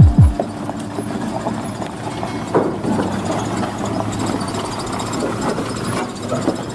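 Two deep booms falling in pitch at the very start, then an old Hino truck's diesel engine running steadily, with an uneven rumble and a few light knocks.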